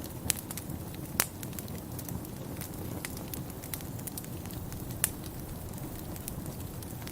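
Wood fire crackling in a fireplace, with scattered sharp pops, the loudest about a second in and again about five seconds in, over a low steady rumble.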